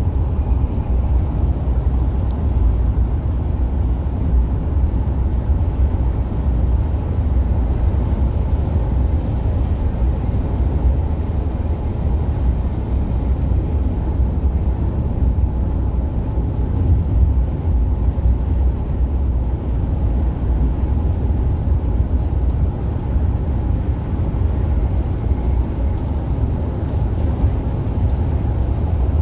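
Mercedes-Benz Actros truck cruising on the highway: a steady deep rumble of engine and road noise.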